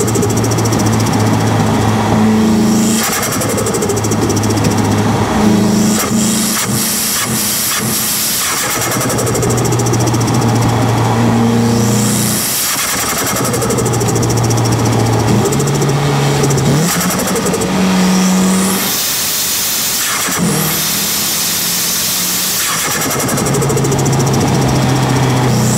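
Turbocharged SR20 engine of a Nissan Silvia S15, heard from a microphone at the T28 turbo, running at steady engine speeds that step up and down. Several times, about every four to six seconds, the engine note drops away and a short rushing hiss takes over: the turbo fluttering as the throttle is lifted.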